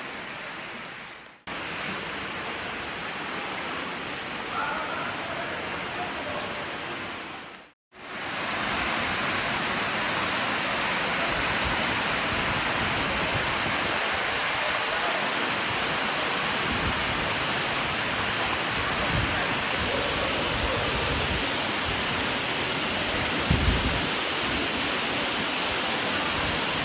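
Steady rushing of the Tukad Cepung waterfall. The sound breaks off briefly twice, and after the second break, a little before halfway, it is louder.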